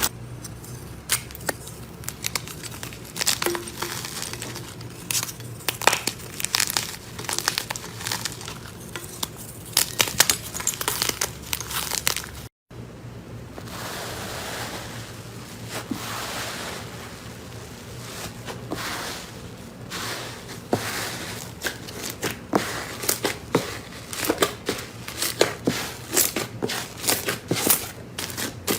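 Slime being squeezed and pressed by hand, with many small crackling pops and crunches at an uneven pace. The sound breaks off for a moment about twelve seconds in and picks up again with the same kind of crackling.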